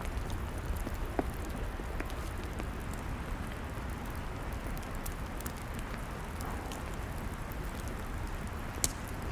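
Log fire crackling: a steady hiss with scattered sharp pops, the loudest one near the end.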